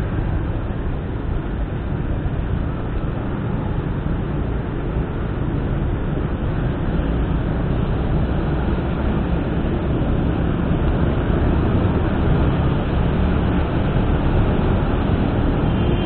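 Steady road and engine noise of a vehicle driving, growing somewhat louder about halfway through.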